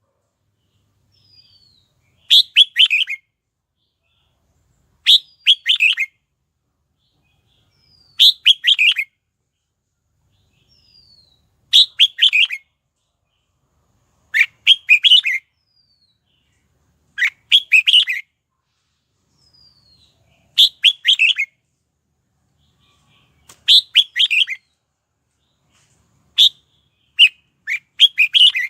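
Red-whiskered bulbul singing a short, loud phrase about every three seconds, with a faint high falling note in several of the gaps. Near the end the phrases come closer together.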